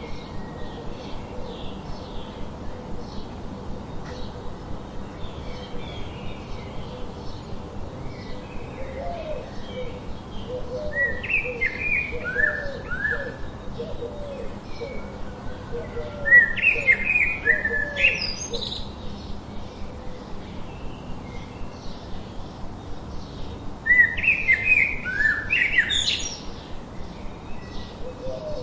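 Birds singing: a steady background of small chirps, with a louder, quick warbling song phrase three times, about 11, 16 and 24 seconds in, and a run of lower repeated call notes in between.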